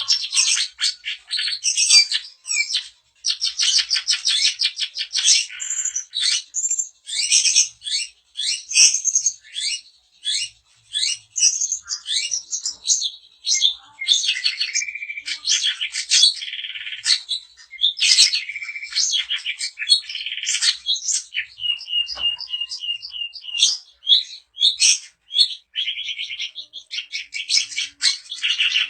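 Long-tailed shrike (cendet) singing continuously: a fast, varied stream of high chattering notes. A little past twenty seconds in there is a quick run of repeated notes.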